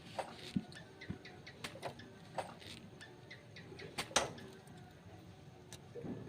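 Scattered light clicks and knocks of tools and motorcycle engine parts being handled during assembly, with the loudest knock about four seconds in.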